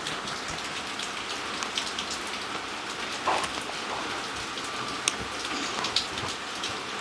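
Heavy rain falling steadily, an even hiss with many small drop ticks and a few louder taps.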